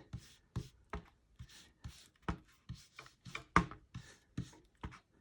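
Blending brush dabbing and stroking ink onto the edges of paper, a string of short scratchy taps about two or three a second, unevenly spaced, the strongest about three and a half seconds in.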